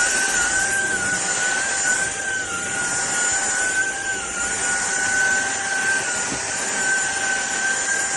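A SunSare cordless stick vacuum cleaner runs with a steady high whine over a rushing airflow hiss. Its pitch dips slightly every second or two.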